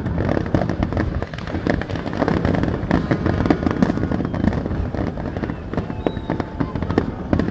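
Fireworks display: a dense, unbroken crackle of many sharp pops and bursts.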